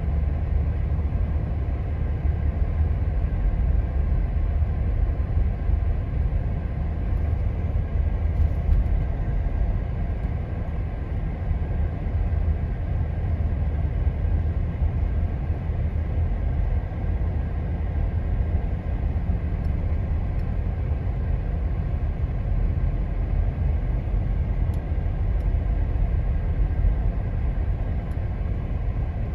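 A Jeep driving on snow-covered back roads: a steady low rumble of engine and tyre noise.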